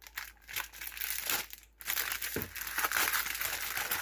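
Crinkly wrapping crackling as a gift basket is handled, in two stretches with a short break a little before halfway.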